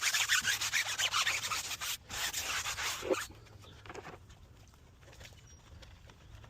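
A stiff brush scrubbing with rapid back-and-forth strokes, in two spells split by a brief pause about two seconds in, stopping a little over three seconds in.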